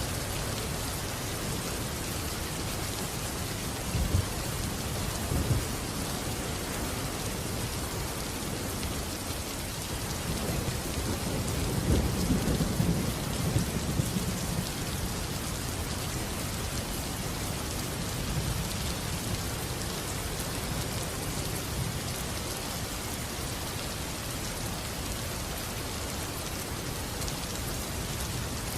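Steady heavy rain, with thunder rumbling: short rolls about four and five seconds in, and a longer, louder roll from about eleven to fifteen seconds.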